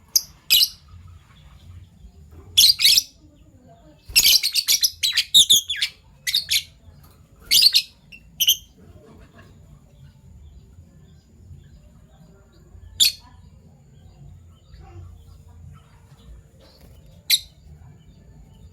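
Fischer's lovebirds giving short, shrill chirps in irregular bursts, with a quick run of calls about four to six seconds in and then only a few single chirps with long pauses between them.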